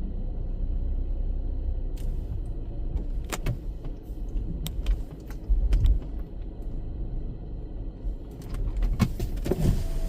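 Car engine idling, heard from inside the cabin, with a few scattered clicks and knocks.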